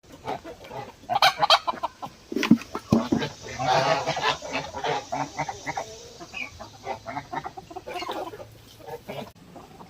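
A backyard poultry flock of domestic geese, chickens and ducks calling, with many short overlapping calls, loudest in the first half.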